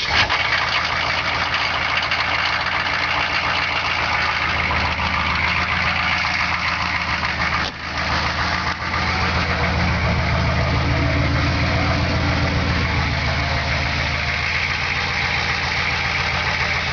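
Engine idling steadily just after a cold start, with a brief dip in level about halfway through; it runs without smoking.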